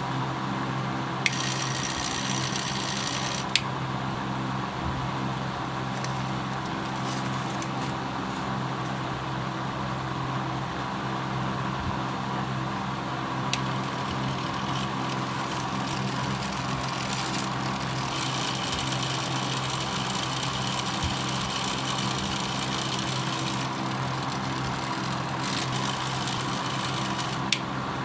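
Small electric motor of a homemade mini mixer grinder running with a steady hum. Several times it is joined by a higher hissing rattle lasting a few seconds, and there are a few sharp clicks.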